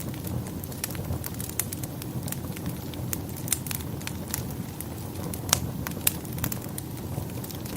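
Wood fire burning in a fireplace: a steady low rumble with frequent irregular crackles and pops, two of them sharper about five and a half and six seconds in.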